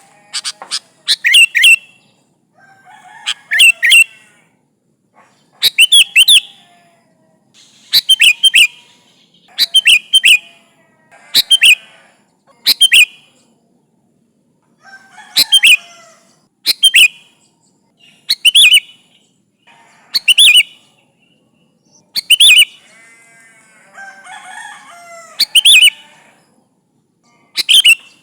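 Sooty-headed bulbul (kutilang) in full, active voice, repeating short, loud, bright call phrases about every one and a half to two seconds. Fainter, lower chattering calls sound between the phrases, with a longer warbling stretch near the end.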